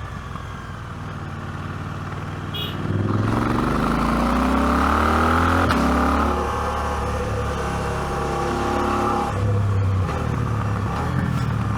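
KTM 790 Adventure's parallel-twin engine under way: a low steady note at first, then about three seconds in it opens up and the note climbs as it accelerates, breaking off at a shift just before halfway. It then runs steadily at a higher note, changing again near the end.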